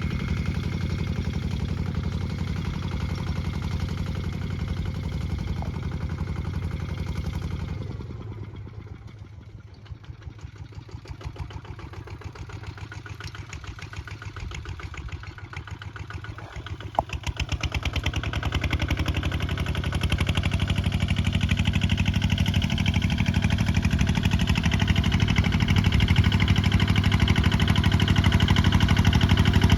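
Single-cylinder diesel engine of a Kubota ZT155 two-wheel walking tractor running while plowing. It drops much quieter about eight seconds in, gives a sharp click about halfway through, then comes back up and runs steadily louder.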